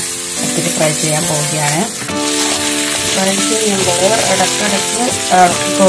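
Beef pieces and sliced onions sizzling in a frying pan, a steady hiss, under melodic background music.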